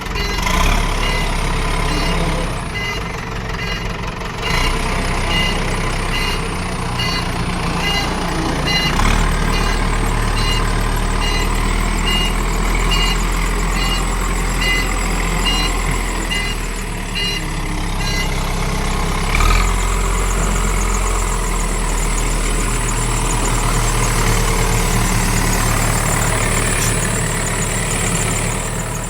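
Diesel engine of a Caterpillar 424B2 backhoe loader running steadily at idle. For the first half there is a repeated electronic beep about every 0.7 seconds, which stops about halfway through.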